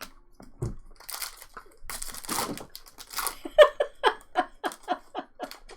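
Trading-card pack wrappers crinkling and tearing as packs are ripped open. This is followed by a quick run of short taps, about five a second, for the last two seconds.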